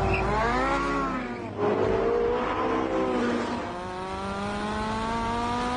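Porsche 918 Spyder's V8 accelerating hard from a launch-control standing start. The engine note climbs, drops sharply at an upshift about a second and a half in and again about three and a half seconds in, then pulls up steadily in the next gear.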